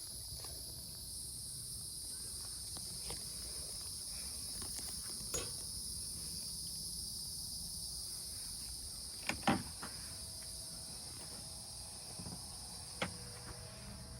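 Evening insect chorus, crickets chirring steadily at two high pitches. A few light knocks and clicks come through it, the loudest pair about nine and a half seconds in.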